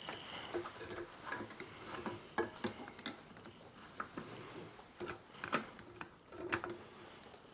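Irregular clicks and light metallic knocks of hand tools and small engine parts being handled during work on a lawnmower engine.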